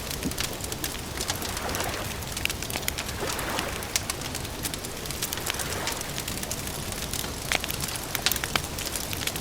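Campfire crackling with frequent sharp pops over a steady background hiss.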